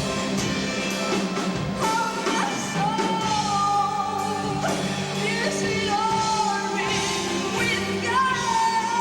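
Live band music with a singer holding long sustained notes over the band, about two, five and eight seconds in, recorded through a VHS-C camcorder's microphone.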